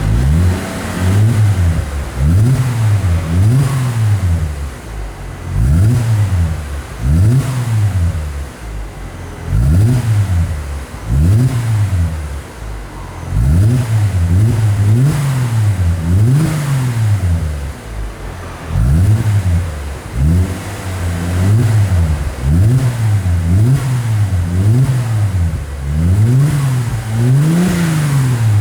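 2008 Mercedes-Benz C300's 3.0-litre V6 revved in quick repeated throttle blips through an aftermarket exhaust from Tai-Rong, an exhaust maker. The exhaust note rises and falls about once every second and a half.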